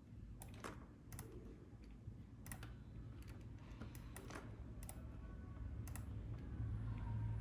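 Faint, irregular clicks of a computer mouse and keyboard, about a dozen of them, over a low steady hum that grows louder near the end.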